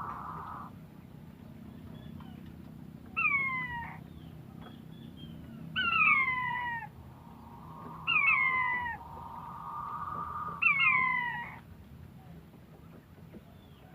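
An animal calling: four falling calls of about a second each, spaced a couple of seconds apart, with a steadier held call at the start and another between the last two.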